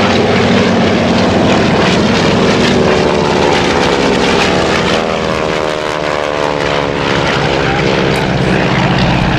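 Piston radial engines and propellers of a World War II warbird making a loud flypast, the engine note sliding down in pitch as it goes by.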